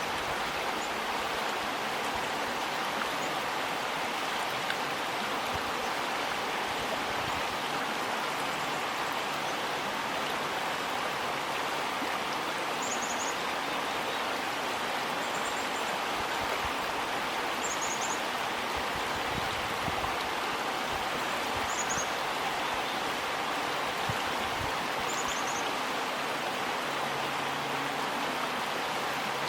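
River water rushing steadily under a bridge, an even unbroken wash. Short high chirps come every few seconds through the middle.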